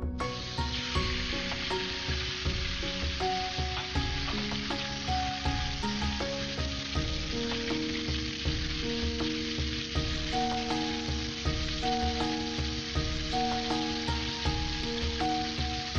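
Raw chicken breast strips dropped into hot oil in a wok, which starts sizzling suddenly and keeps up a steady sizzle while being stirred with a wooden utensil. Soft background music plays underneath.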